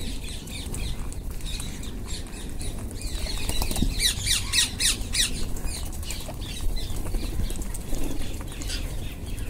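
Wild rose-ringed (Indian ringneck) parakeets squawking with shrill, repeated calls, including a run of about six loud, rapid calls around the middle.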